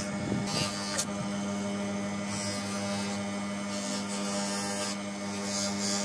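Electric motor of a workshop power tool running at a steady speed with a constant hum, with short bursts of hissing, rasping noise coming and going over it.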